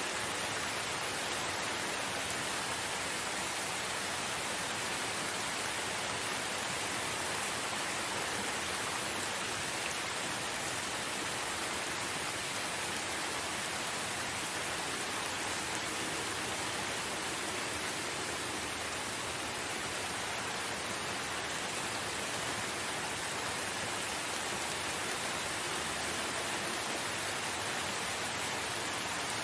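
Steady rain falling, an even, unbroken hiss with no distinct drops or thunder standing out.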